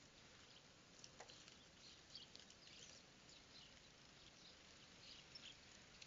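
Faint, scattered chirps of small birds over a low hiss, close to silence.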